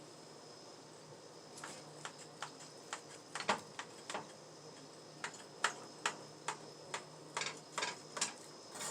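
Utensils clicking and tapping against dishes and a pan while food is plated, a dozen or so light irregular knocks that come more often near the end, over a faint steady kitchen hum.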